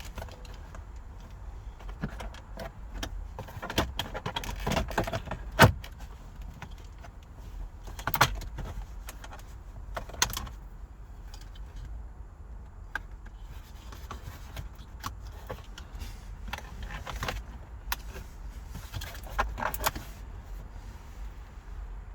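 Irregular clicks, taps and rattles of hands working at a car's gear shifter, unplugging its wiring connectors and handling loose parts, with a louder knock about five and a half seconds in. A low steady hum runs underneath.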